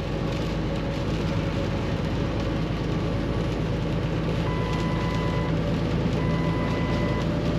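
Cab interior of a Kenworth T680 semi truck with its PACCAR MX13 inline-six diesel running steadily as it climbs a grade, over a constant rush of road and wet-weather noise. Starting about four and a half seconds in, a one-second electronic beep sounds twice.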